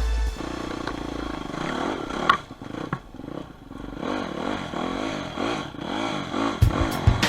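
Enduro motorcycle engine revving up and down again and again as it rides, with a sharp knock a little over two seconds in.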